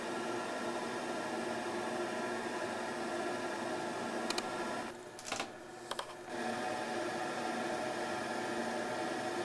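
Steady machine hum with several fixed tones. It drops out briefly about halfway through, with a few sharp clicks just before and during the gap.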